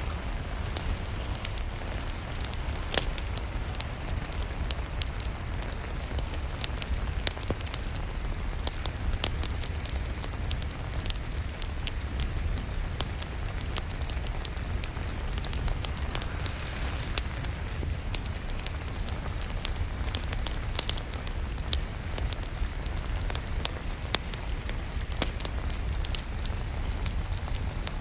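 Crackling wood fire with frequent sharp pops and snaps, over steady rain falling on a surface.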